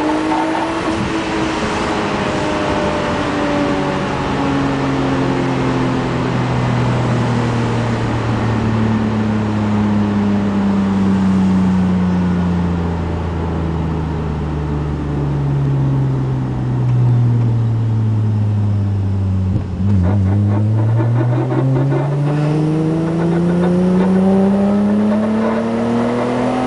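Nissan Maxima 3.5-litre V6 engine, freshly rebuilt and untuned, winding down slowly in second gear for about twenty seconds, then, after a brief clatter, climbing steadily in pitch again as another full-throttle pull begins.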